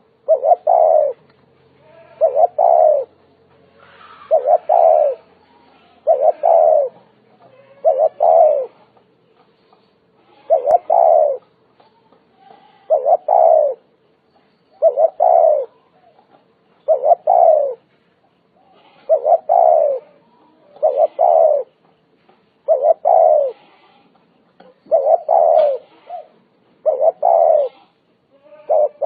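Spotted dove cooing, a short phrase of a few notes repeated about every two seconds.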